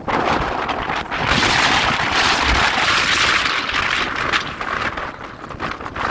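Strong wind gusting and buffeting the microphone, with a low rumble under a rushing hiss. A gust builds about a second in and eases off, and another rises near the end.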